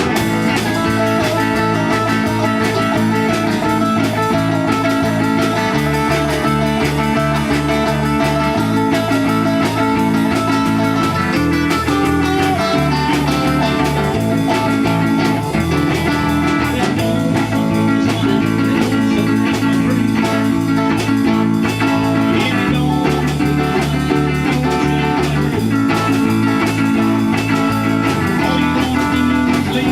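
Band playing an instrumental passage: guitar over a bass line that changes note every couple of seconds, with a steady beat and no singing.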